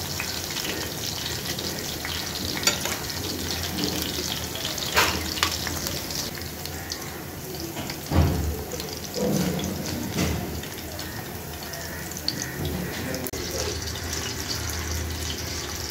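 Mutton cheese kababs shallow-frying in oil: a steady sizzle with fine crackling. Metal tongs clink against the pan a few times as the kababs are turned and lifted out, with the loudest knock about halfway through.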